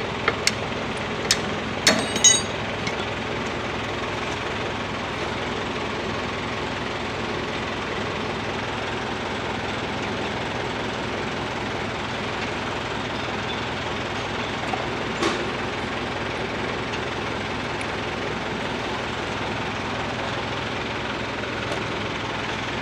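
Steady mechanical drone, like an engine running close by, with a few sharp clicks near the start and one more about fifteen seconds in.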